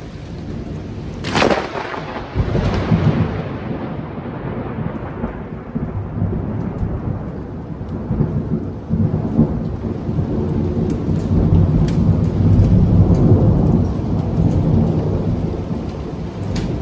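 Thunder in heavy rain. A sharp thunderclap cracks about a second in, and the long low rumble swells again later, over steady rain.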